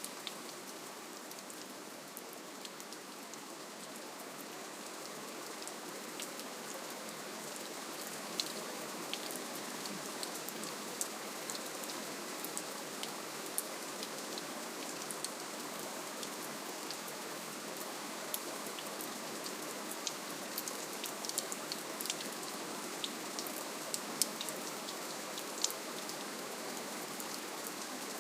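Steady rainfall: an even hiss of rain with many individual drops ticking sharply against a surface, the drop ticks growing more frequent about a third of the way in.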